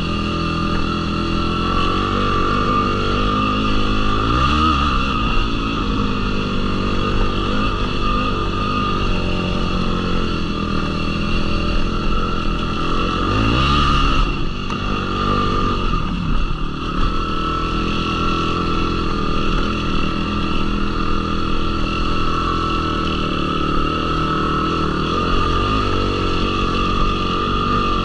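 Yamaha YFZ450R quad's single-cylinder four-stroke engine running under way on a trail. Its pitch rises twice as the throttle is opened, about four seconds in and again near the middle.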